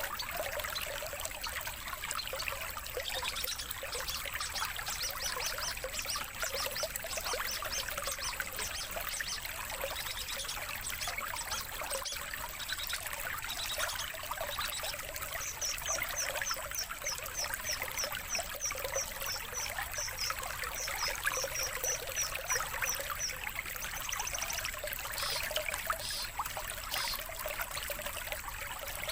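Steady trickling water like a small stream, with a songbird singing over it. Near the middle is a long, fast run of evenly repeated high notes.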